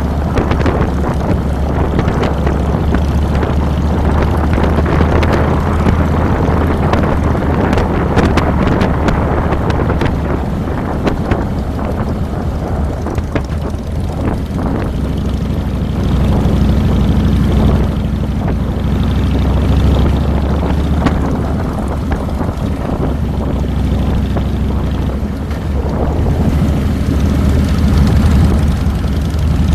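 2007 Harley-Davidson Fat Boy's Twin Cam 96 V-twin engine running steadily under way, with wind rushing over the handlebar-mounted microphone.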